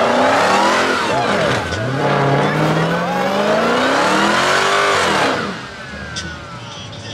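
Dodge Charger's V8 revved hard in a burnout, rear tyres spinning and squealing. The revs climb, dip about a second and a half in, climb again for a few seconds, then fall away just after five seconds in.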